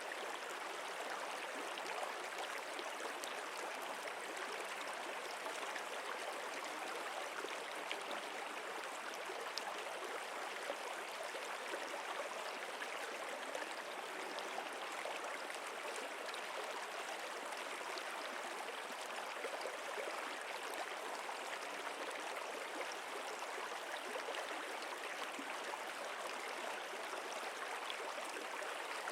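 A stream running steadily, an even rush of flowing water with small splashes.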